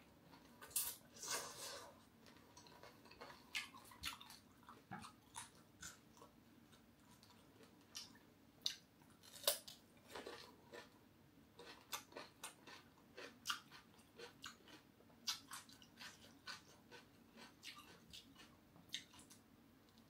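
Close-up chewing of crispy fried fish belly: irregular crunches and mouth clicks, with a few louder crunches about a second in and near the middle.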